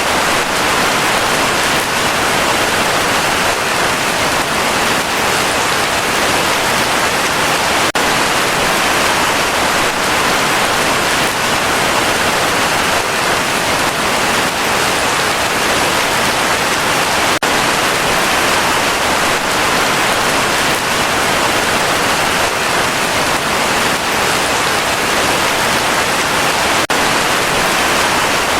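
Heavy rain falling steadily as a dense, even hiss of countless drops.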